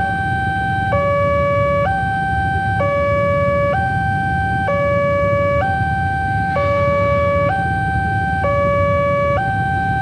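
Railway level crossing warning alarm sounding its two alternating tones, high then low, each held just under a second, over a steady low rumble.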